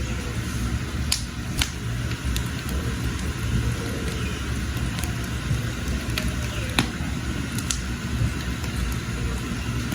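Wood fire burning under a pot, a steady low rumble with sharp crackles and pops a few times, and faint bird chirps.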